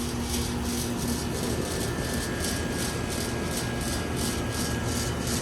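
Outdoor heat pump unit running, a steady fan and compressor noise with a fast, even pulsing. A low hum fades out about a second in and a thin higher tone comes in a second later.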